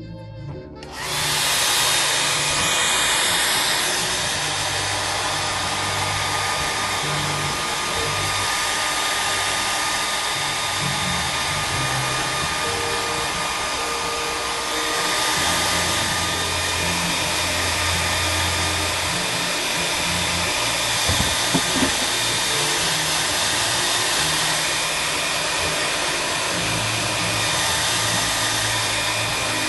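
Electric blower running steadily with a loud, even rush of air, switched on about a second in; in shoe repair this is typically a heat gun or hot-air dryer, or the dust-extraction fan of a finishing machine.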